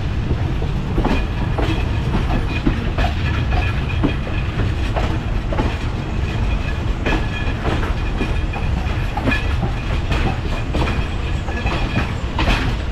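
Sri Lankan Railways passenger train rolling along a station platform, heard from an open coach window: a steady low rumble with wheels clacking at irregular intervals over the rail joints.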